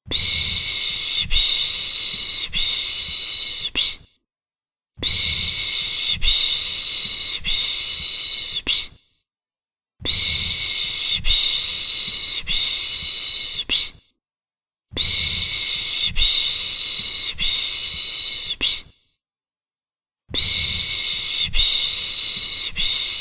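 A person's rhythmic 'pış pış' shushing, the hushing sound used to lull a baby to sleep: long hissing runs of about four seconds, each broken into a few pulses, repeating with about a second of silence between them.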